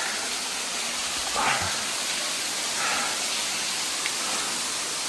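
Steady rushing of a small waterfall splashing onto rocks, with a couple of faint brief knocks or movements on top.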